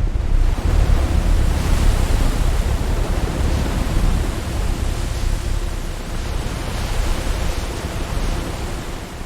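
Rushing floodwater: a loud, steady, even roar with a heavy low rumble and no distinct events.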